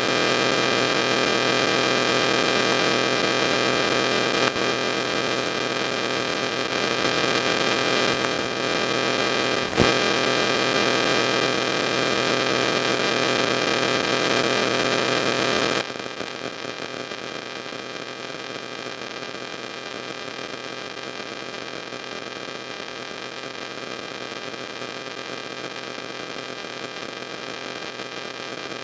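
Steady electrical hiss and hum, with many steady tones, a single click about ten seconds in, and a drop in level about two-thirds of the way through.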